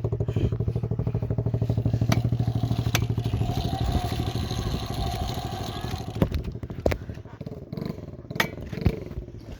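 Mini bike's small engine running with a fast, even pulsing. It is held up for about six seconds, then eases back toward idle, with a few sharp knocks near the end.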